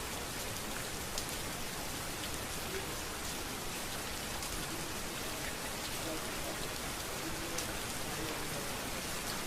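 Steady rain falling on a street, a dense even hiss with scattered sharper ticks of individual drops.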